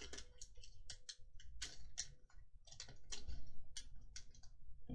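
Light, irregular clicks and taps of Magic: The Gathering trading cards being handled and sorted, a dozen or more in quick uneven succession.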